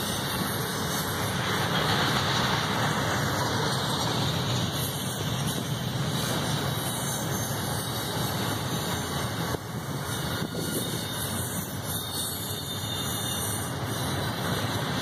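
Double-stack intermodal freight cars rolling past, their steel wheels running steadily on the rails.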